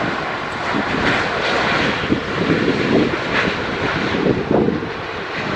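Airbus A350-941 jet engines on final approach, a loud steady jet rumble.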